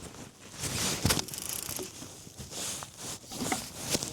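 Irregular rustling and scraping handling noise with a few sharp knocks, from fishing gear being worked while a fish is on the line.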